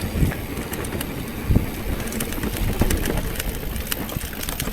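Wind buffeting the microphone as a steady low rumble, with scattered small clicks and scrapes.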